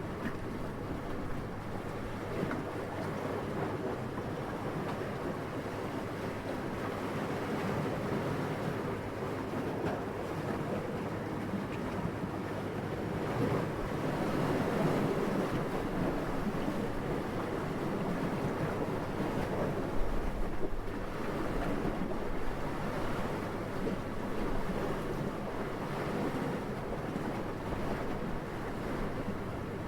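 Steady wind blowing, a soft rushing that rises and falls and swells to its loudest about halfway through, with a short, sharper low gust about two-thirds in.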